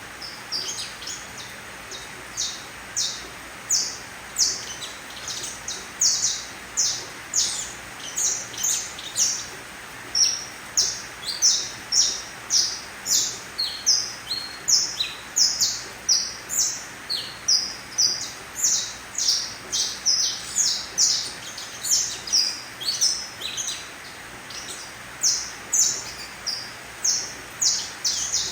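Young colour-mutation canary, about three months old, chirping: short high-pitched notes at about two a second, in runs broken by brief pauses.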